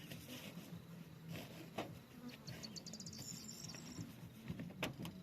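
Honeybees buzzing around the hives in a steady low hum, with a few sharp knocks and a quick run of high-pitched ticks about halfway through.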